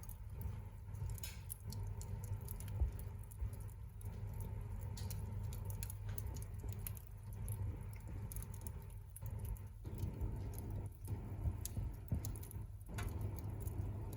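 Wood campfire crackling, with irregular small pops and snaps over a low steady rumble.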